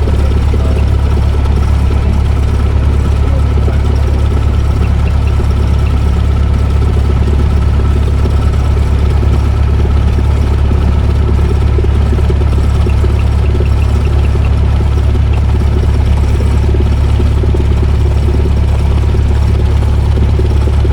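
Cessna 172S's four-cylinder Lycoming engine idling on the ground after start, a steady, loud low hum heard from inside the cabin.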